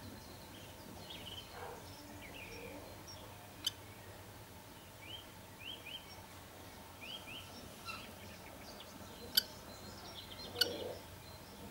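Faint, high bird chirps in short rising notes, some in quick pairs and threes, over a steady hiss, with three sharp clicks, the last two near the end the loudest.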